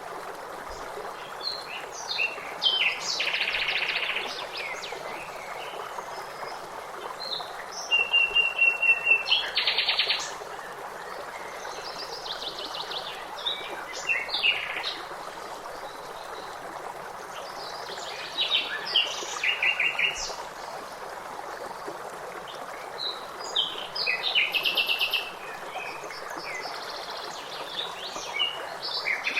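Several songbirds singing in short phrases of chirps and fast trills, over a steady rush of running water.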